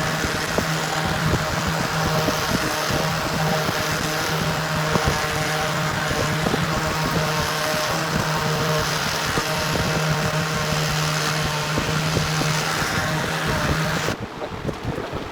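Electric sander wet sanding a finished tabletop with 2000-grit paper, running steadily with a constant hum and hiss, then switched off about 14 seconds in.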